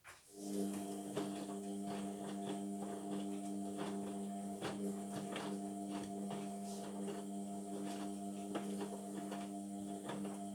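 Indesit washing machine humming steadily with a buzzy electrical tone that switches on just after the start, with scattered light clicks and a faint hiss of water.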